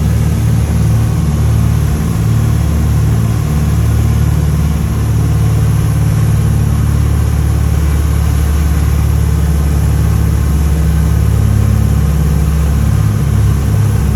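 Twin piston engines and propellers of a Cessna 310-K droning steadily in flight, with a regular throbbing beat coming into the drone near the end.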